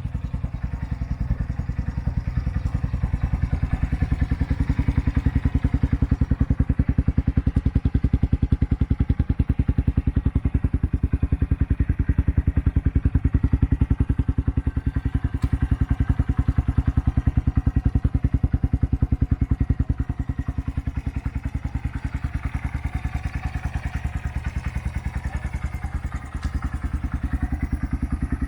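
Honda Grom 125's single-cylinder four-stroke engine running at a steady idle, its exhaust pulses even, a little louder through the middle stretch and settling lower near the end.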